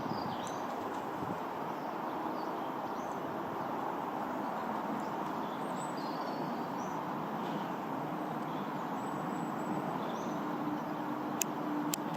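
Steady, even outdoor background roar of distant engine noise, with small birds chirping faintly now and then. Two sharp clicks come near the end.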